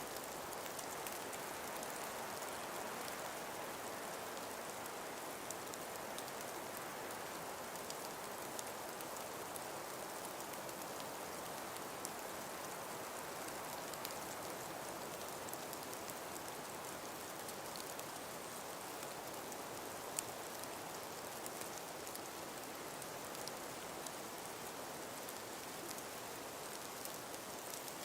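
Steady, even hiss of a calm winter breeze, with faint scattered ticks.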